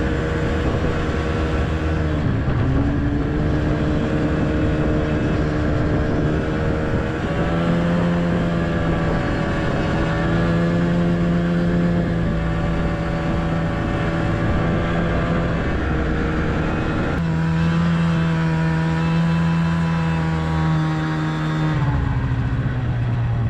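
Vehicle engine running steadily while driving, its pitch rising about a third of the way in, shifting again later, and dropping near the end as the engine speed changes.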